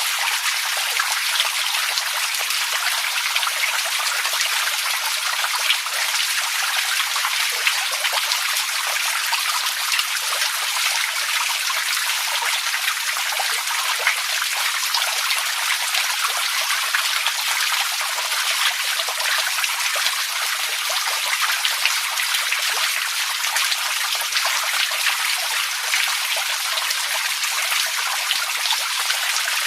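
Steady trickling, splashing water with a dense patter of small drops and no deep rumble.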